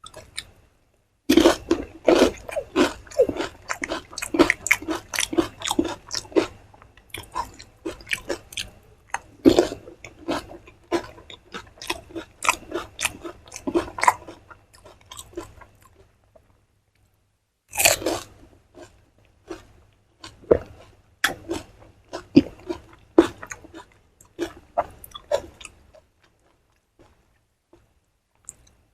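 Close-miked eating of crisp fuchka (pani puri) shells: dense runs of crunching and chewing for the first quarter-minute, a short pause, a loud crunching bite about 18 seconds in, then slower, sparser chewing that fades out near the end.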